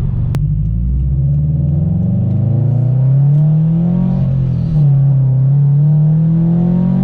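Supercharged Subaru BRZ flat-four with a catless header and single-exit exhaust accelerating hard. The engine note climbs steadily, dips briefly at a gear change about four and a half seconds in, then pulls and climbs again, louder.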